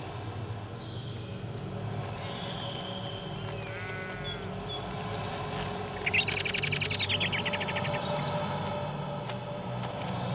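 Birdsong: short high chirps, a brief call about four seconds in, and a loud rapid trill lasting about two seconds from six seconds in, over a low steady drone.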